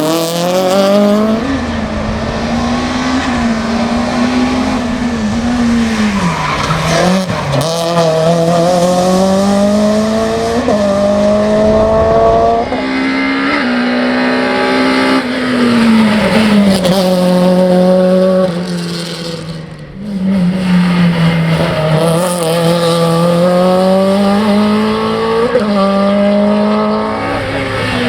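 Renault Clio hill-climb race car's engine revving hard through its gears, its pitch climbing and then snapping back at each shift and falling on the way into corners. There is a short lift-off about twenty seconds in.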